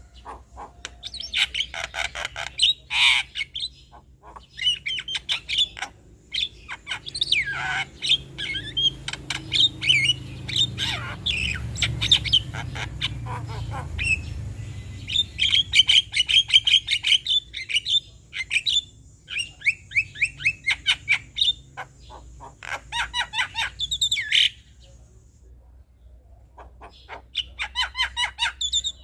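Male Javan myna (jalak kebo) chattering song: fast runs of sharp clicks, whistles and squawks in quick bursts, with a pause of about two seconds near the end.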